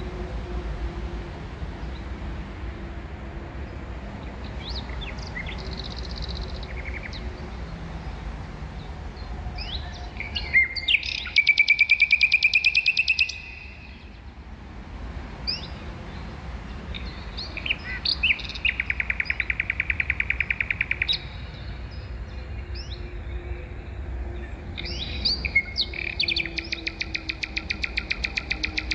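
A songbird singing three times, a loud, rapid buzzing trill of two to three seconds, each opened by a few short chirps and spaced about seven seconds apart. A steady low rumble runs underneath.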